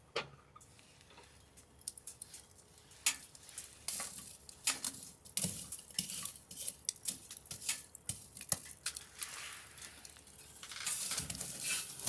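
Irregular small clinks and knocks of objects being handled, with short scraping rustles between them, busier from about three seconds in.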